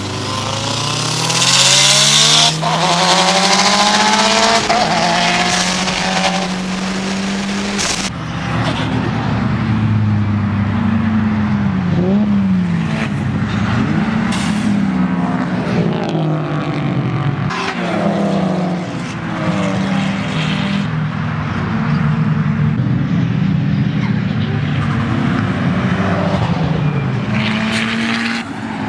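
Turbocharged Mitsubishi Lancer Evolution VIII four-cylinder engines at full throttle. At first, heard from inside the cabin, the revs climb with a gear change about two and a half seconds in. After a cut at about eight seconds, the engines are heard from trackside as the cars accelerate and pass, their pitch rising and falling.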